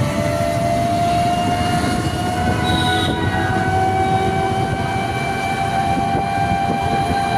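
Train passing with a rumble and a steady whine that rises slowly in pitch.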